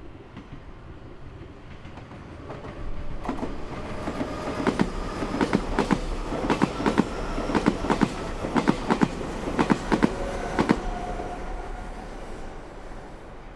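Meitetsu Nagoya Main Line train passing: its wheels clack over the rail joints in quick pairs. The sound builds, comes loudest mid-pass with a faint whine under the clacks, then fades away.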